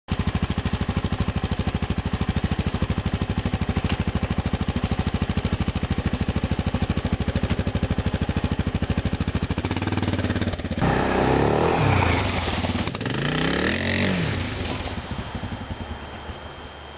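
An engine running with a fast, even pulse, then revving up and down a few times about eleven seconds in before it fades away.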